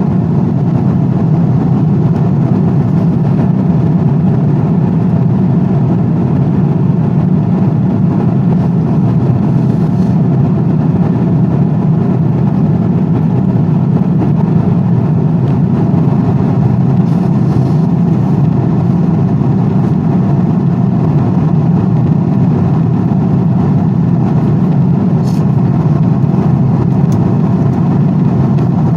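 Steady, unchanging aeroplane noise: a deep, even rumble with no separate events.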